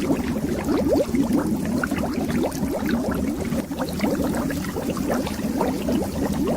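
Bubbles underwater, a dense, continuous stream of short bloops that each glide quickly upward in pitch, over a low steady rumble.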